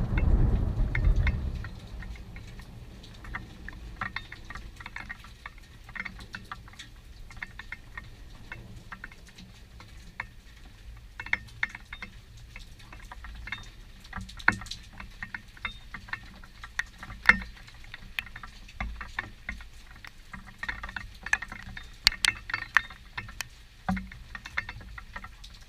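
Thunder rumbling and dying away in the first second or two, then scattered raindrops ticking and pattering close to the microphone, with a few sharper, louder drips.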